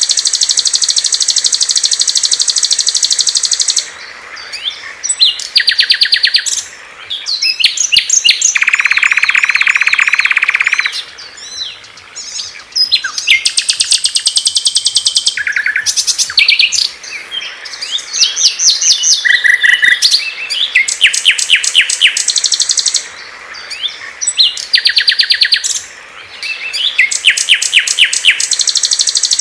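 Several small songbirds singing in quick succession, a mix of fast high-pitched trills and rapid chirping phrases. A lower, steadier trill comes in from about eight and a half to eleven seconds in.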